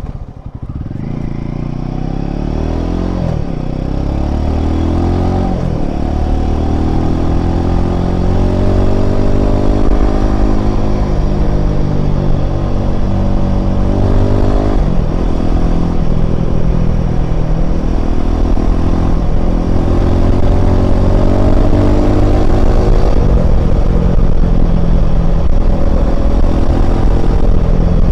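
Royal Enfield Himalayan 450's single-cylinder engine under way, its pitch climbing and dropping back several times as the bike accelerates and shifts. It gets louder over the first few seconds and stays loud.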